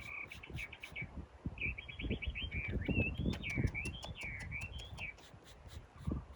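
A bird calls with quick, high, repeated chirps and then a warbling run of notes that rise and fall in pitch, over low thuds and clicks of handling.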